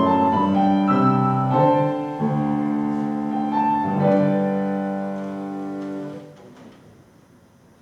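Piano playing slow, sustained chords, with the last chord dying away about six seconds in.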